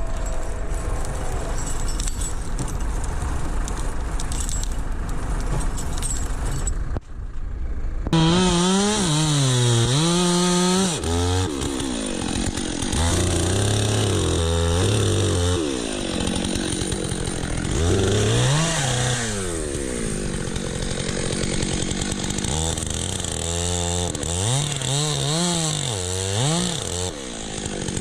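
A steady, low engine noise for the first several seconds, then after a short break a two-stroke chainsaw running loud, its pitch repeatedly rising and falling as it is revved up and dropped back, over and over to the end.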